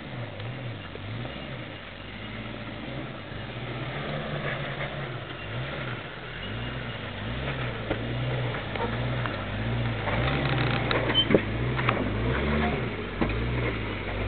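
Jeep Grand Cherokee engine working at low revs as it crawls over rock, the revs rising and falling again and again as the throttle is fed on and off. It gets louder toward the end, with a few short knocks in the second half.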